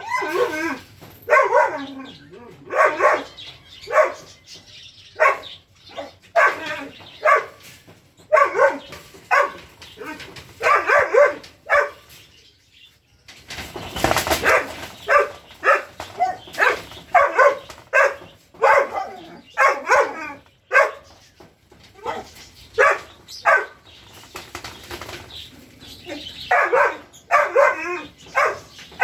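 A dog barking repeatedly in clusters of short barks. About halfway through there is a brief rushing noise.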